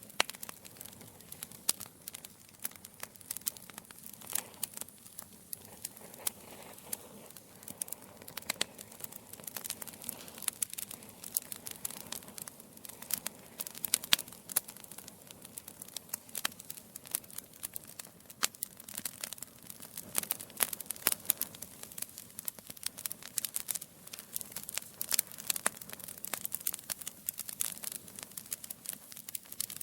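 Wood logs burning in a fireplace, crackling and popping with many irregular sharp snaps over a soft steady hiss of the flames.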